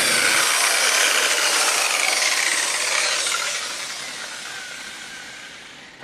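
Random orbital polisher with a microfiber pad switching off: its low motor hum cuts out just after the start, and the pad whirs down with a faint falling whine, fading over several seconds.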